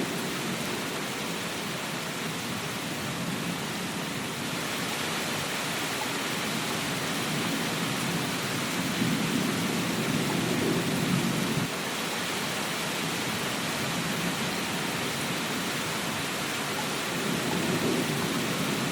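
Steady rain hiss, with a low rumble swelling twice, once in the middle and again near the end.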